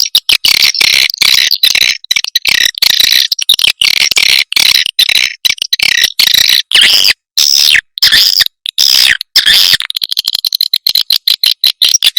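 Swiftlet calls from a recorded swiftlet-house lure track: dense, loud chattering chirps in quick bursts with short gaps, changing about ten seconds in to a faster, buzzing run of rapid clicks.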